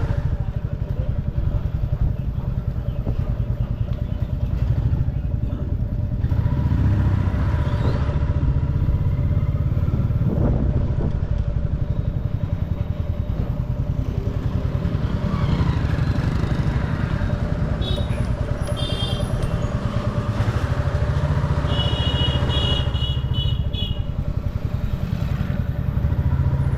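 Motorcycle engine running steadily with a low rumble amid busy street traffic; a high vehicle horn beeps briefly about two-thirds of the way through and again for a couple of seconds near the end.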